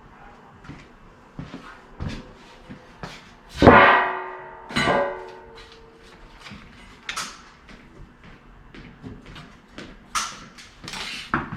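Knocks and clicks of sheet-metal furnace parts and tools being handled. Two loud metal clangs ring on briefly, about four and five seconds in.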